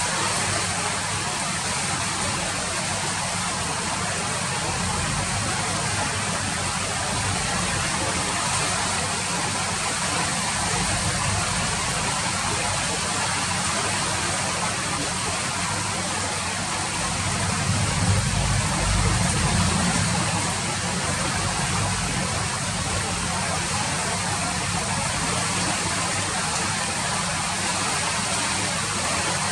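Steady rain falling, an even hiss of drops, over a low rumble that swells briefly about two-thirds of the way through.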